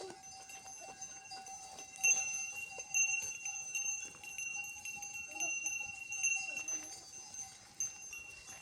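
Livestock bells clanking steadily, with sharper strikes about two and three seconds in; the ringing thins out near the end.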